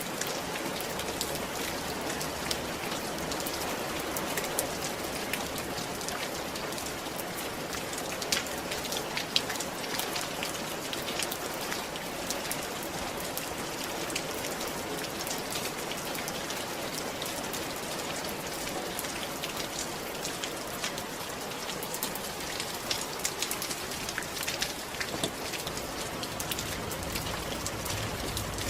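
Steady rain falling on a roof: a dense, even hiss with many individual drops ticking sharply through it.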